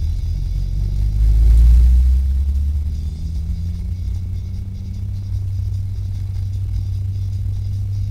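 Manual-transmission car's engine and road noise heard inside the cabin while driving, a low rumble that swells about a second in and then settles into a steady drone.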